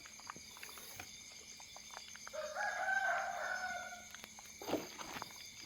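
A rooster crowing once, a single call of nearly two seconds beginning about two seconds in, stepping up in pitch and then held. Scattered light clicks and a short burst of noise near the end.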